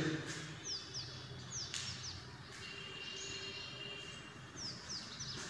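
Faint bird calls: short, high, falling chirps, mostly in quick pairs, heard a few times.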